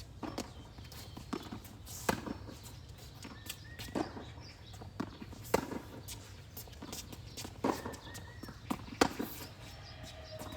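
Tennis rally: racquets striking the ball and the ball bouncing on the court, a sharp knock every second or two.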